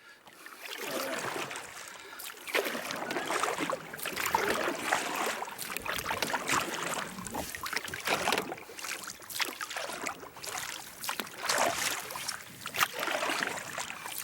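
Small boat being forced through boggy muskeg shallows, with irregular splashing and swishing of water and vegetation against the hull.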